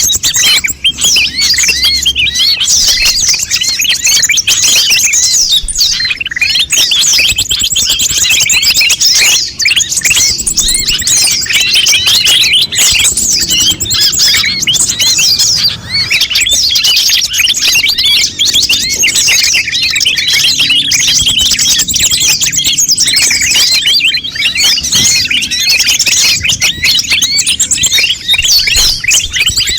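Konin birds chirping in a dense, busy stream of quick, high notes and short trills that keeps going without a break.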